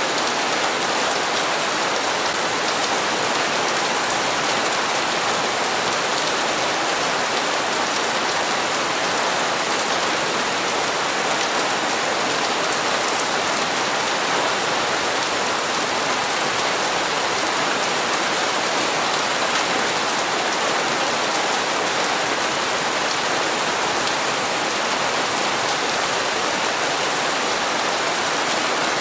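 Steady rain falling on hard surfaces, an even hiss with faint scattered drop taps that does not change.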